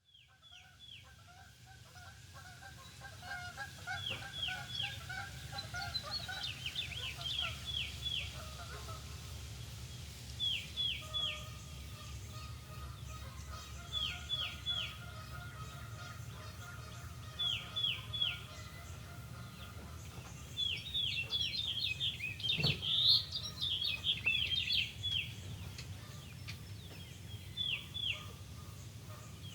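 Birds singing and calling, one repeating a short phrase of three quick falling whistles every few seconds, with a busier burst of chatter about two-thirds of the way through. A low, steady rumble lies underneath, and the sound fades in over the first few seconds.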